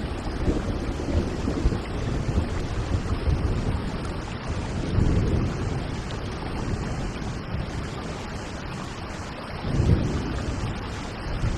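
Steady rain falling, with low rumbles of distant thunder swelling about halfway through and again near the end.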